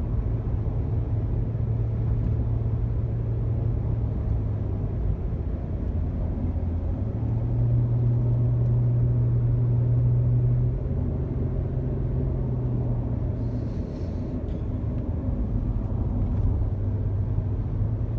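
Honda Odyssey minivan cruising at about 50 miles an hour, giving a steady low engine and road drone. The engine note rises and gets louder about seven seconds in, then falls back around eleven seconds.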